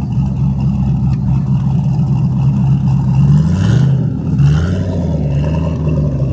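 A car engine running loud and close, with a steady low tone that drops in pitch and picks back up about four seconds in, like the throttle eased and reapplied.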